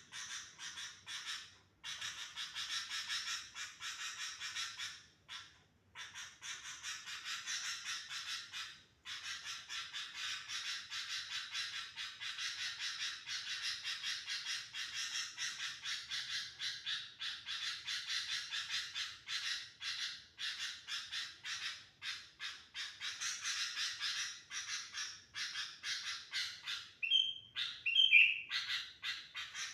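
Sooty-headed bulbuls (kutilang) chattering in a dense, rapid stream of short calls, with a few brief pauses. Near the end a louder, clearer whistled call stands out.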